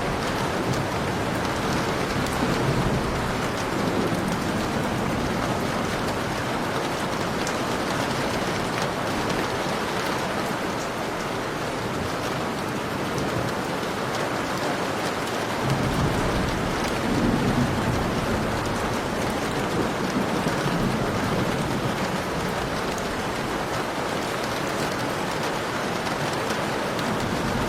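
Heavy rain pouring steadily, with low rolling thunder rumbling in the background, swelling near the start and again a little past halfway.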